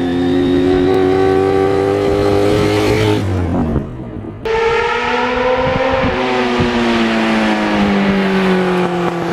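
Sport motorcycle engine running under way, its note holding and slowly sinking. It drops away briefly about four seconds in, then comes back at a higher note and slowly falls again.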